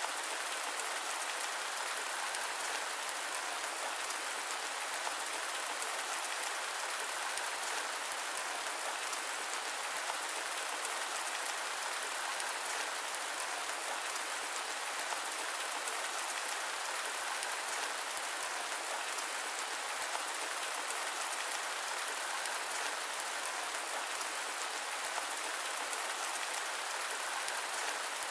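Steady rain falling, an even hiss of many drops with no deep rumble and no let-up.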